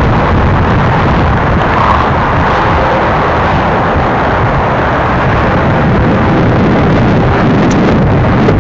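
Steady rushing rumble of a freight train rolling downgrade across the canyon, mixed with wind on the microphone.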